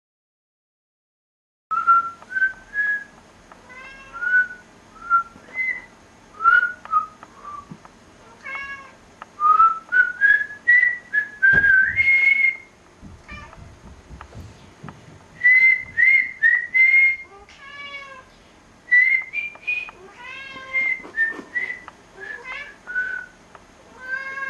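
A person whistling short notes, some gliding up or down, with a domestic cat meowing back between them. Whistles and meows alternate after a second and a half of silence at the start.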